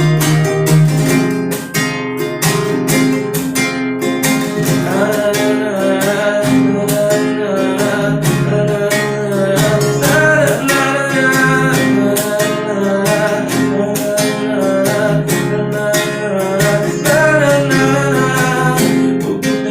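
Acoustic guitar strummed in a steady rhythm with a melody line over it: the instrumental passage that links two songs in a sertanejo cover medley.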